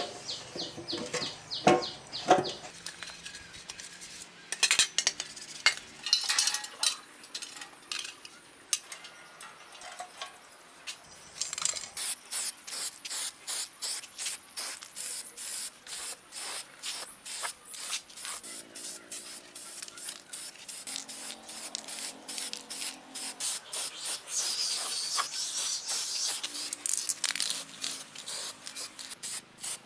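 Hand scraping or abrasive strokes on a part, going in a quick regular rhythm of about three strokes a second from about twelve seconds in, after a stretch of scattered knocks and scrapes.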